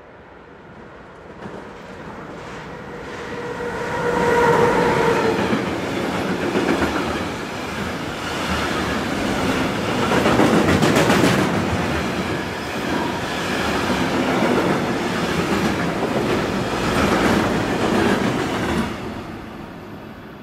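Train passing along the platform, wheels clattering over the rail joints and points. The sound builds over the first few seconds, with a short whine about four seconds in, runs loud for about fifteen seconds, then fades away near the end.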